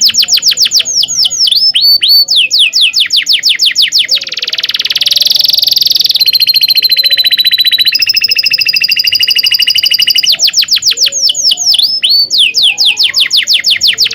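Domestic canary singing a long, continuous song: runs of quick down-slurred whistled notes alternating with fast rolling trills, each roll held for about two seconds.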